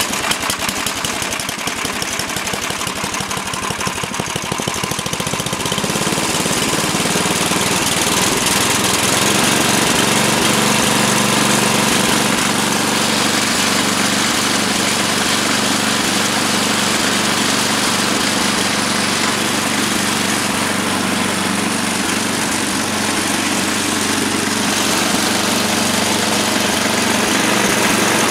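Mastercraft 8 hp snowblower engine catching on a cold start and running, a rapid, even firing at first that settles into a louder, steadier run about six seconds in.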